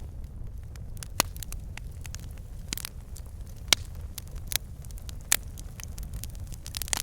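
Wood fire in a fireplace burning with a steady low rumble, the logs crackling and popping at irregular moments, with a few sharper pops: one about a second in, one in the middle, one about two-thirds through, and a quick cluster near the end.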